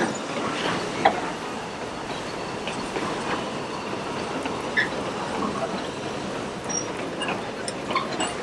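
A Puffing Billy narrow-gauge heritage train rolling slowly along the track, its carriage wheels clattering on the rails with scattered irregular clicks.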